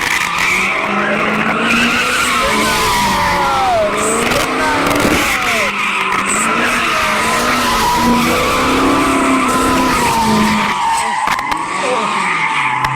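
A car drifting, its tyres squealing continuously over the high-revving engine, easing off briefly near the end.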